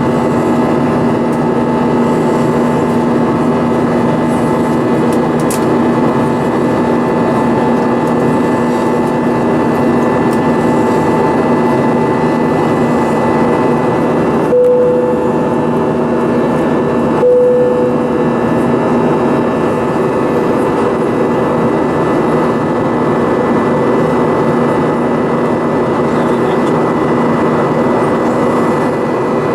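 Steady drone of an Airbus A320's jet engines heard from inside the passenger cabin in flight after takeoff, with a constant hum. About halfway there are two short tones, roughly three seconds apart.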